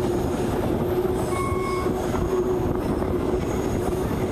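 Passenger train running along a curve, heard from an open coach doorway: a steady rumble of wheels on the rails with wind, and a short high squeal about a second and a half in.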